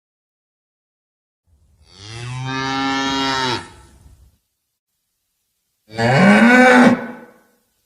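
Cow mooing twice: a long, steady low moo, then a louder moo about six seconds in that rises in pitch.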